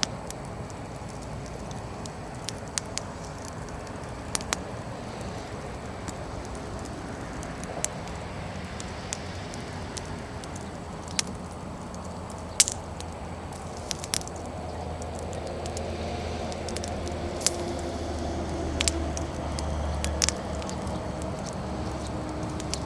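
Wood fire burning, firewood crackling with scattered sharp pops over a steady hiss. A low rumble builds up in the second half.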